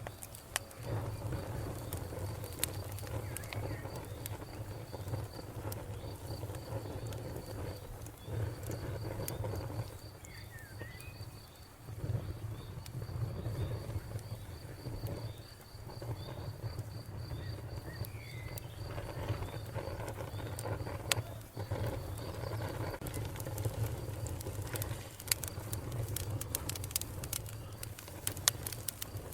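Wood fire burning with a steady low rumble and scattered sharp crackles and pops, coming thicker near the end. A faint high chirp repeats several times a second through most of it, and there are a few short calls.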